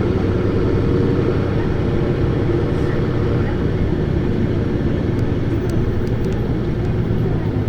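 Isuzu Erga (PKG-LV234Q2) city bus's diesel engine running steadily while the bus is under way, with a few faint clicks about two-thirds of the way through.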